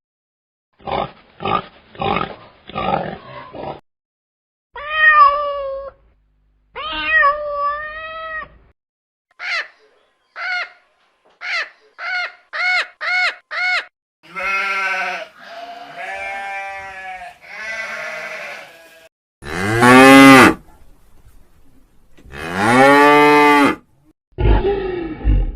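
A string of separate animal calls spliced one after another: quick short calls, then drawn-out calls, then a run of short rising calls, and near the end two long, loud, deep calls.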